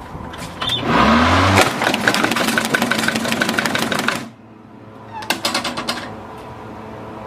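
Lawnmower running as a plastic toy is fed into the blades, which shred it with a loud, rapid clatter. The clatter cuts off suddenly about four seconds in, and a second short clatter follows about a second later.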